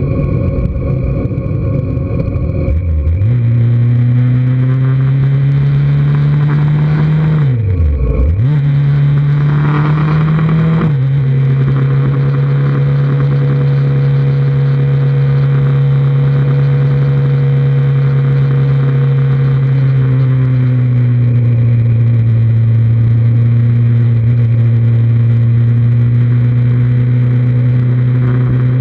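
2003 Kawasaki Z1000's inline-four engine running at steady road speed, recorded on the bike, with wind rush strongest in the first few seconds. About eight seconds in its pitch drops sharply and comes straight back up, and around twenty seconds in it settles a little lower.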